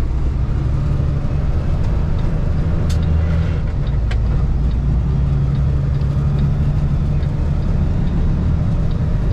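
A Kenworth T680 semi truck's PACCAR MX13 diesel engine, heard from inside the cab, running under way as a steady low drone with road noise. The engine note moves up in pitch about four seconds in.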